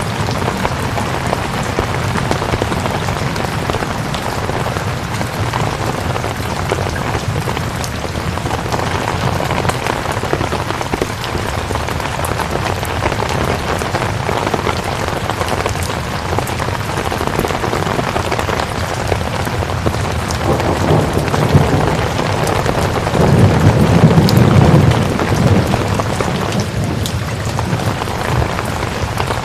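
Steady rain falling. About two-thirds of the way through, a low rumble of thunder swells up and dies away.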